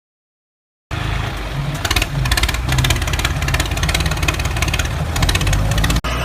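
An engine running steadily with a fast, even ticking rhythm. It starts abruptly after about a second of silence and cuts off suddenly near the end.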